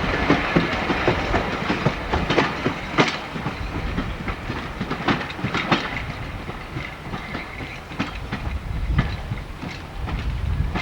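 A train running on jointed track, its wheels clattering with irregular clicks over the rail joints over a low rumble, slowly fading as it moves away.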